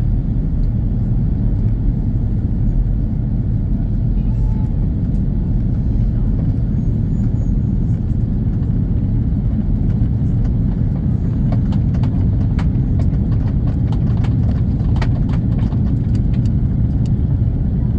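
Steady low rumble of cabin noise inside an Airbus A340-300, the engines and airflow heard from a passenger seat, with faint light clicks and rattles in the second half.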